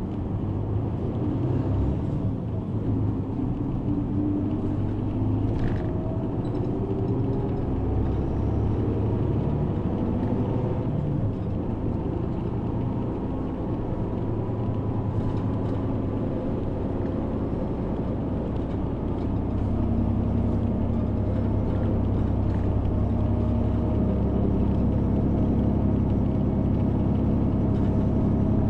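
Route bus driving, heard from inside the cabin: a steady low engine and road rumble, with the engine's pitch rising and falling as it changes speed.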